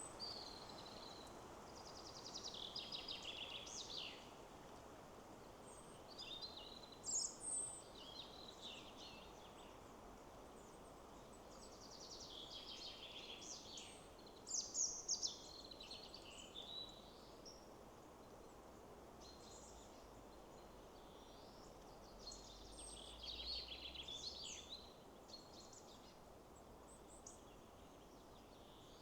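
Several songbirds singing short, rapid trilled phrases every few seconds over a steady soft rushing background.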